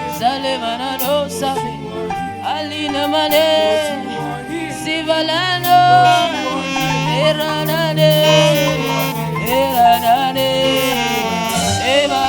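Live worship band music: a saxophone plays a melody with pitch bends and vibrato over sustained bass notes.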